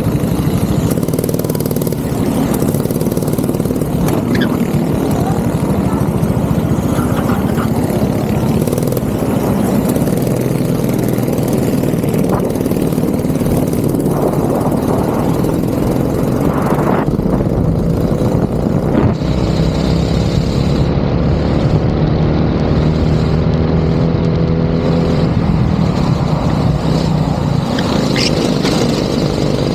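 Go-kart engine running loud and close, a steady dense drone throughout.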